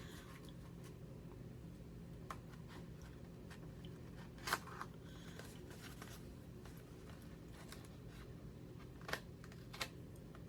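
Packaging being cut open with a sharp knife: a few scattered short clicks and scrapes, the loudest about halfway through and two more near the end, over a faint steady hum.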